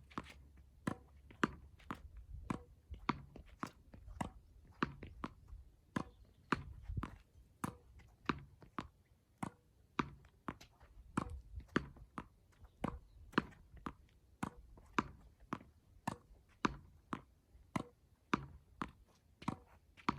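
Tennis ball being struck by rackets and bouncing on a court, a sharp pop about every half second in a steady rhythm.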